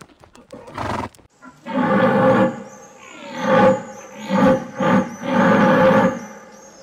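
A horse neighing: a run of loud, pitched whinny calls starting about two seconds in, after a short burst of noise about a second in.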